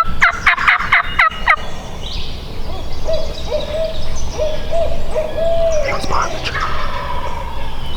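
Wild turkey gobbler gobbling: a fast, rattling run of short falling notes at the start. A few seconds later comes a lower, wavering, drawn-out hooting call.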